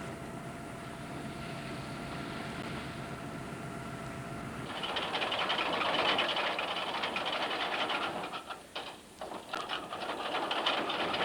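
Trawler machinery as the trawl gear is shot away: a steady engine hum with a faint whine, then about halfway through a louder rushing hiss with fast rattling that briefly drops out and returns.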